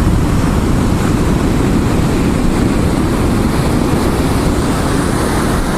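Steady low rumble of wind buffeting the microphone mixed with ocean surf at the shoreline.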